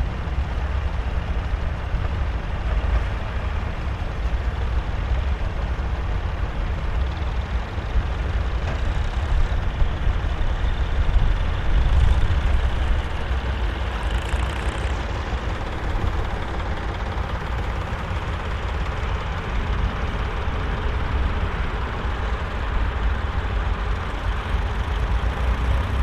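Volvo BM 2654 tractor's diesel engine running steadily with a deep rumble, working under load while pulling a plough.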